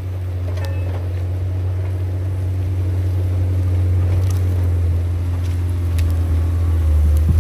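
John Deere 670 GP motor grader's diesel engine working, a steady low drone that grows gradually louder and drops a little lower near the end, with a few faint clicks.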